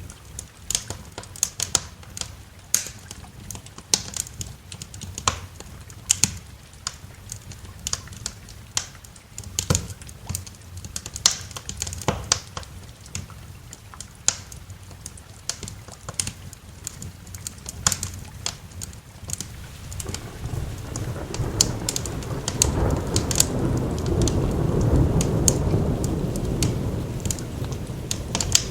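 Wood fire crackling with irregular sharp pops, over a soft hiss of rain. About two-thirds of the way in, a long low roll of thunder swells up, peaks, and begins to fade near the end.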